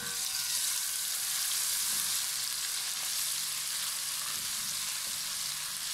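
Ginger-garlic paste frying in hot oil in a karahi: a steady sizzle, a little louder for the first couple of seconds, as a metal slotted spoon stirs it.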